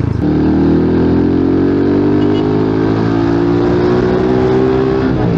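Rusi Sigma 250 motorcycle engine accelerating steadily in gear, its pitch climbing slowly for about five seconds before changing near the end.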